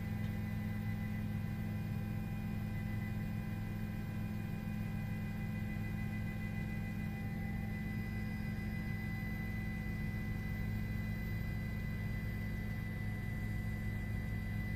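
A steady low hum with several faint, thin, constant higher tones layered over it.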